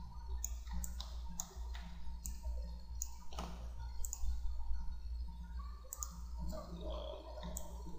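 Computer mouse clicking: sharp single clicks at irregular intervals, over a steady low electrical hum.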